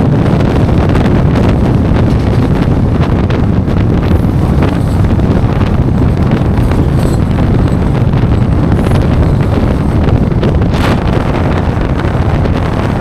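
Running noise of the 13510 Gonda–Asansol Express at speed: a loud, steady rumble with wind buffeting the microphone, and a few sharp clicks along the way.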